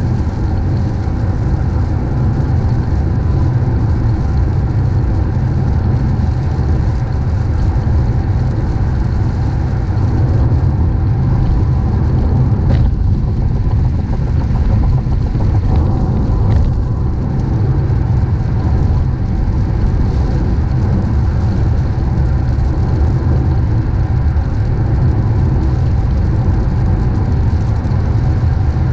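A car driving, with a steady low rumble of road and engine noise. Two brief sharper sounds come through about 13 and 16.5 seconds in.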